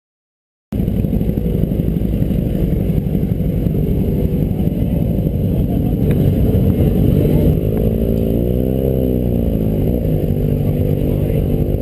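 Motorcycle engine running, starting abruptly just under a second in after silence. It is revved up and back down once about two-thirds of the way through.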